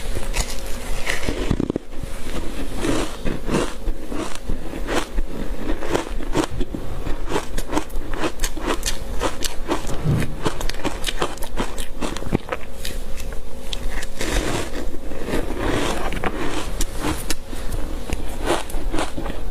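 Close-up crunching of ice coated in matcha powder being bitten and chewed: a dense, irregular run of crackling crunches.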